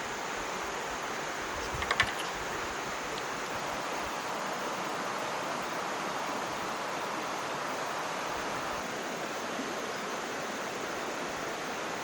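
Steady rushing of flowing water, with a single brief clink about two seconds in.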